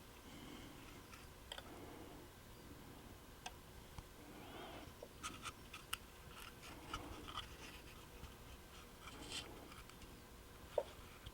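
Faint, scattered clicks and light scratching of small model parts and hobby tools being handled on a workbench, with one sharper click near the end.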